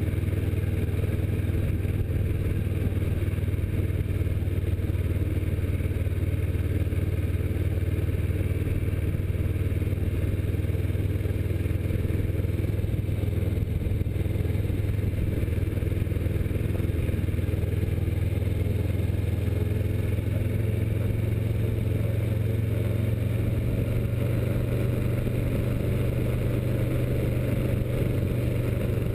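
Kawasaki Versys motorcycle engine running steadily at low road speed, picked up by a camera mounted on the bike as a low, even drone. Its pitch rises slightly over the last several seconds.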